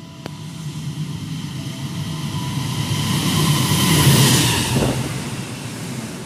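Diesel-electric locomotive and its passenger coaches passing through a station at speed. The low rumble of wheels and engine builds, is loudest about four seconds in as the locomotive goes by, then carries on as the coaches roll past.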